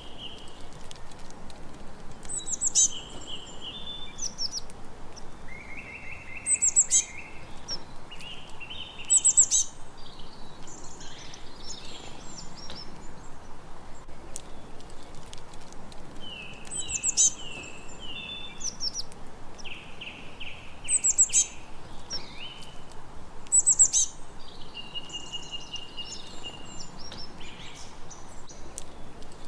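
Songbirds singing outdoors, repeating short phrases every few seconds: high, sharp downward-sweeping notes followed by lower, rapid trilled notes, over a faint steady background hiss.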